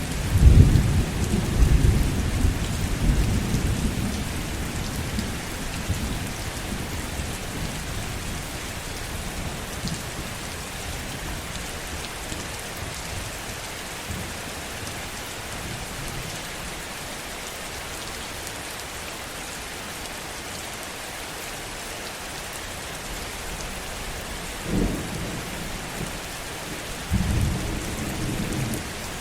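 Heavy rain falling steadily, with thunder rumbling at the start and fading away over several seconds. About 25 seconds in comes a short sharp thunderclap, and another rumble of thunder begins near the end.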